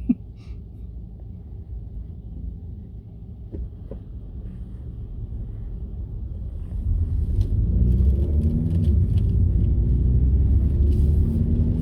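Car driving, heard from inside the cabin: a steady low engine and road rumble that gets clearly louder about seven seconds in.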